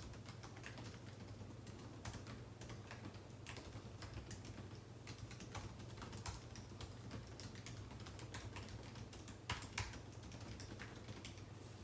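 Typing on a computer keyboard: irregular, uneven keystrokes, with a couple of louder strokes near the end, over a steady low hum.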